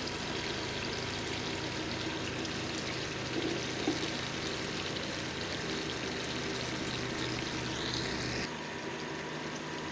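Chopped tomatoes sizzling and bubbling steadily in oil in a frying pan as they cook down to softness, stirred with a wooden spatula, with a couple of soft knocks about four seconds in.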